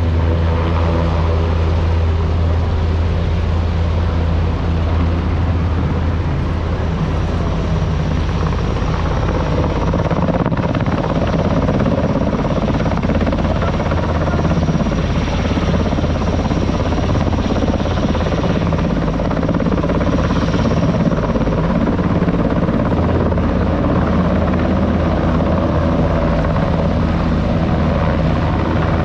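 Military helicopters flying past, a continuous loud rotor drone with a deep low hum. A faint high whine joins about seven seconds in and fades out about two thirds of the way through.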